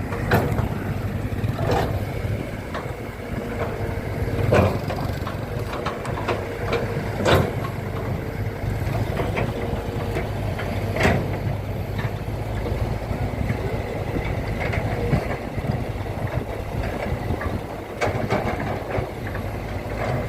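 A large engine running steadily at a low hum, with a few sharp clanks over it.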